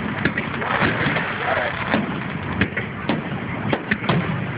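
Murmur of many people's voices, with scattered sharp pops and knocks going off at irregular intervals.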